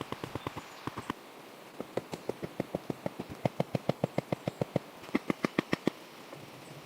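Rapid, evenly spaced knocks, about five or six a second, in three runs. The longest and loudest run is in the middle, and a short run follows near the end.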